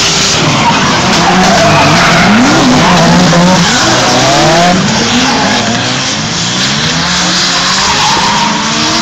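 Drift cars' engines revving up and down hard over loud screeching, skidding tyres, with more than one engine note overlapping.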